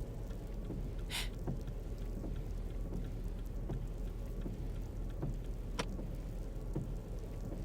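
Car-interior driving sound effect: a steady low engine and road hum under a constant rain-like patter against the car. A short hiss sounds about a second in, and a sharp click near six seconds.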